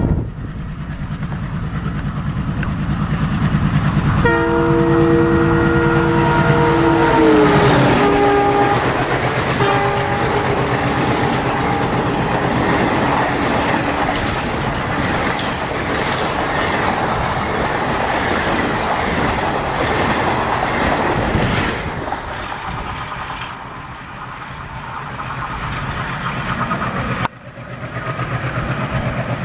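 Diesel locomotive passing: a pulsing engine throb, then a multi-tone horn sounding about four seconds in and held for several seconds, dropping in pitch partway through. The train's wheels then rattle and rush by for about a dozen seconds before dying down, and near the end an abrupt cut brings back a diesel engine running.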